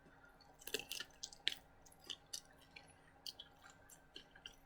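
Close-up chewing and wet mouth smacking as a person eats: a faint string of short, sharp clicks and squishes, busiest in the first second and a half.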